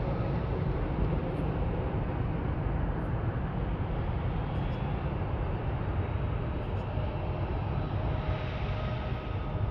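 Jet aircraft engines making a steady low rumble, with a faint whine coming in about seven seconds in.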